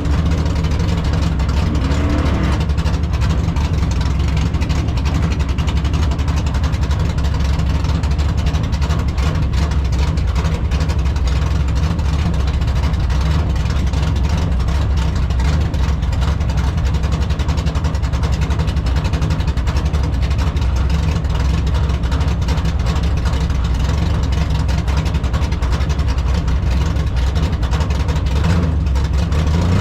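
Drag car's 383 stroker V8 idling, a deep steady engine note with no revving.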